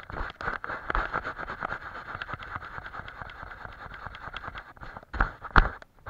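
Paintbrush scrubbing and scratching steadily over a surface, full of small clicks, with two louder knocks near the end.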